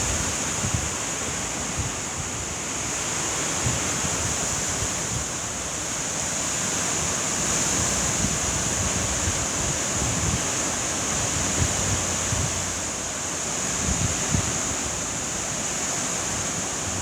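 Heavy rain pouring steadily in a windstorm, a constant hiss, with wind gusts buffeting the microphone in low rumbles.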